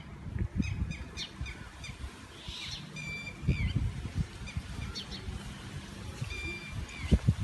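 Birds chirping outdoors. A short whistled call that dips at its end repeats every few seconds among smaller chirps, with uneven low rumbles of breeze on the microphone.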